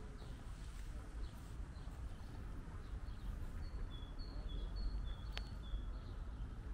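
A small bird singing a quick repeated two-note phrase, high then low, about eight short notes across a couple of seconds in the middle, over a steady low outdoor rumble. A single sharp click falls partway through the song.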